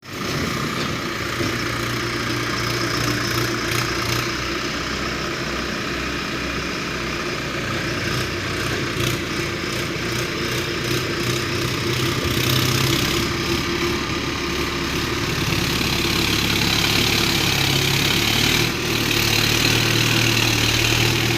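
Tractor engine running steadily at a constant speed, getting a little louder in the second half.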